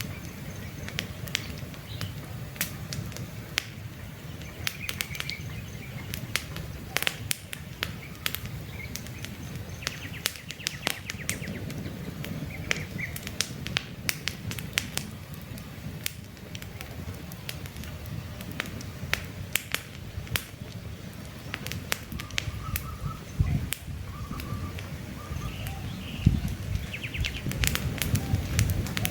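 Wood campfire crackling, with frequent sharp pops and snaps over a low rumble of flames. Birds chirp briefly now and then behind it.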